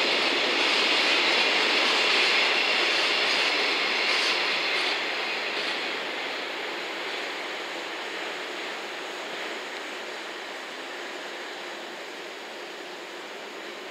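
JR West 115-series three-car electric train running along the track, a steady rail and running noise that is loudest and hissiest for the first five seconds, then eases off and grows quieter.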